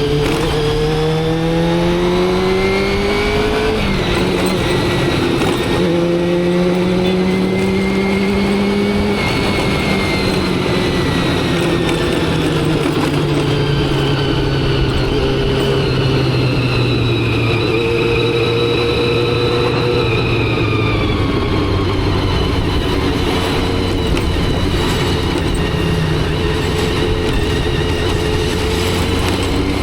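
Motorcycle engine under way, its pitch climbing through the revs, dropping at a gear change about four seconds in, then climbing again before slowly easing off and settling to a steady cruise. Steady wind and road noise run beneath it.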